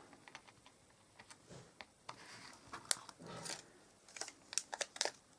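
Glue dots being peeled off their backing and paper snowflakes pressed onto a card: scattered light clicks and short rustles, with a cluster of clicks near the end.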